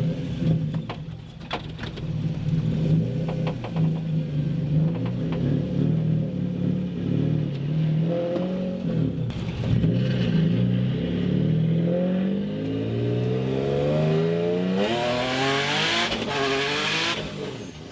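Single-turbo Nissan 350Z's VQ35DE V6 heard from the cabin, running steadily at first, then pulling hard under full throttle. Its note climbs in steps through the gears from about two-thirds of the way in, with a loud rush of intake and exhaust noise at the top, before the throttle lifts near the end.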